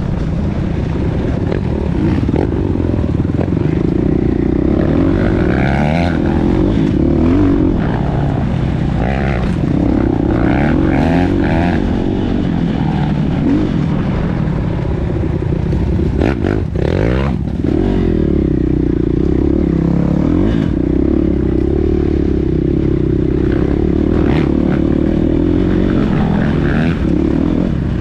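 Motocross motorcycle engines running hard, the revs rising and falling continuously, with a brief break in the engine note about midway.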